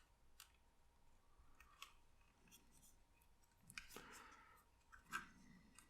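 Near silence with a few faint clicks and short rustles: small paper parts and glue being handled with the fingers while gluing a papercraft model.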